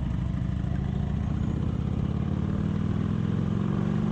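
Harley-Davidson Ultra Classic's V-twin engine running under way, heard from the rider's seat, with its pitch creeping up slightly toward the end.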